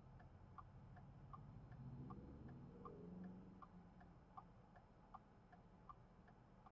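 Faint, regular tick-tock clicking of a car's turn-signal indicator, alternating a stronger and a weaker click about three times a second, over a low engine hum.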